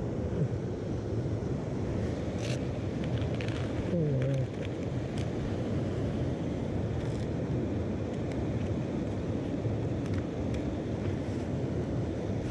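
Mountain stream water rushing steadily, with a few light clicks over it.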